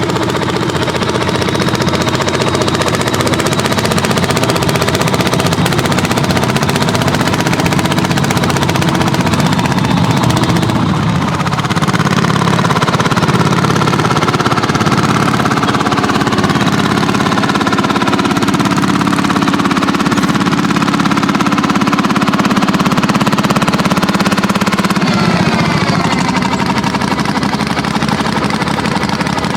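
Landini hot-bulb tractor engines, single-cylinder two-strokes, running under plowing load with a fast, heavy pounding beat. The sound grows louder about twelve seconds in.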